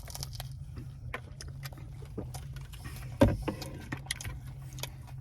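Scattered clicks and rustles of handling and eating a chicken shawarma wrap, over a steady low hum, with one louder thump about three seconds in.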